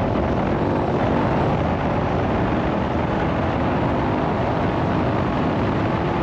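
KTM 1090 Adventure R's 1,050 cc LC8 V-twin engine running steadily under way on the motorcycle.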